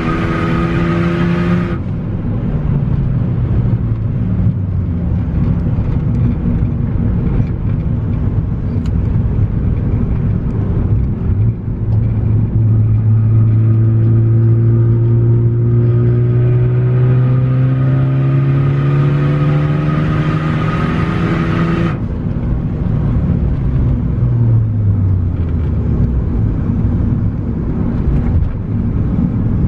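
Turbocharged four-cylinder of a tuned Ford Focus ST under wide-open-throttle pulls, heard from inside the car. A pull ends with a sharp lift-off about two seconds in and the revs fall away. About twelve seconds in the engine pulls again, rising steadily in pitch for some ten seconds before cutting off suddenly, and the revs drop.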